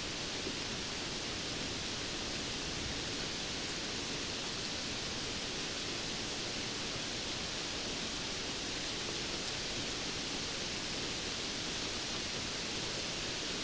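Steady rainfall, an even hiss that neither rises nor falls.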